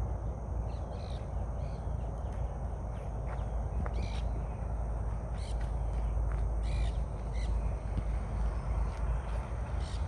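Birds calling in short bursts several times, over a steady low rumble.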